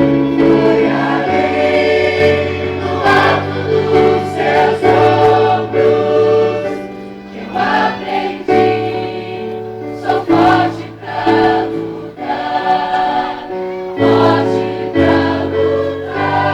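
Choir singing a Christian song in held chords, over a bass line that moves to a new note every second or two.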